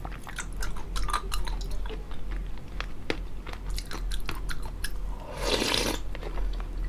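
A person chewing crunchy popping pearls with water chestnut bits inside, close to the microphone, with many quick small crunches and clicks. A brief louder rush of noise comes about five and a half seconds in.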